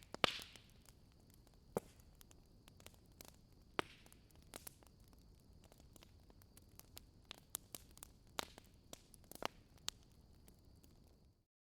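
Wood fire crackling: irregular sharp pops and snaps over a low steady hiss, with a faint high steady whine. It cuts off abruptly to dead silence near the end.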